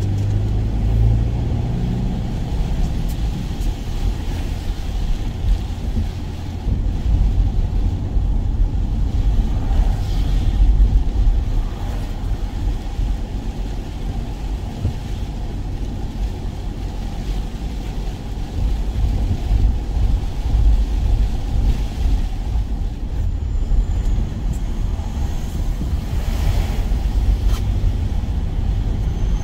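Steady low rumble of a van on the move, heard from inside the cab, with the level swelling and easing a little.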